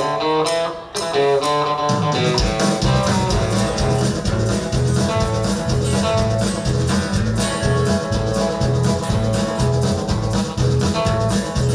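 Live country band playing an instrumental song intro: guitar picking a melody line, joined about two seconds in by a steady rhythm of bass and drums.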